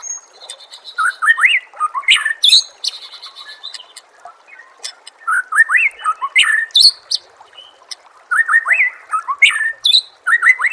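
White-rumped shama (murai batu) singing in three bursts of rising whistled sweeps and sharp high notes, over a faint steady hiss.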